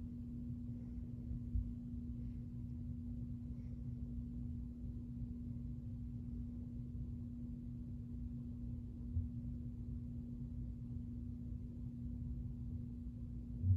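Mainstays ceiling fan running, its motor giving a steady, even hum over a low rumble, with a few soft bumps about a second and a half in, around nine seconds in, and near the end.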